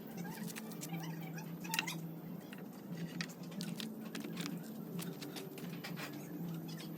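A steady low machine hum with many irregular light clicks and rattles over it, one slightly louder click a little under two seconds in.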